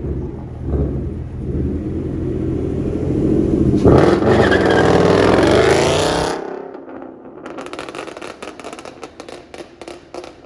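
Car engine revving hard, its pitch climbing for about two seconds before it cuts off abruptly around six seconds in, followed by a run of sharp crackling clicks.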